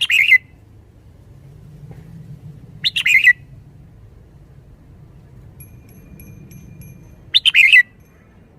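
Red-whiskered bulbul singing three short, bright phrases, each about half a second long, spaced three to four seconds apart.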